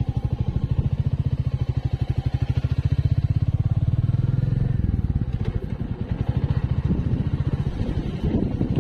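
Single-cylinder motorcycle engine running on the road, a fast even pulsing beat that grows louder about three seconds in and eases off after about five seconds.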